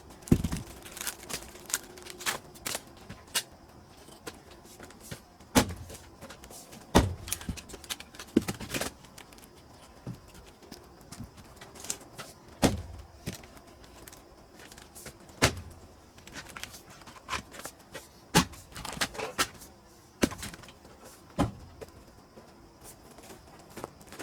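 Hard wooden knocks and thunks of pine firewood every few seconds at an uneven pace, with lighter clattering in between.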